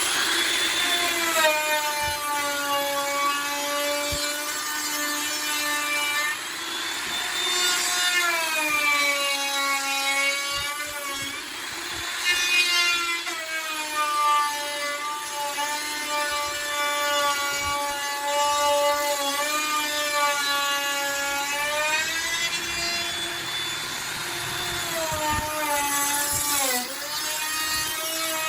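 Handheld electric router cutting into a wooden door, its motor running steadily, with the pitch dipping and recovering every few seconds as the bit takes load in the wood.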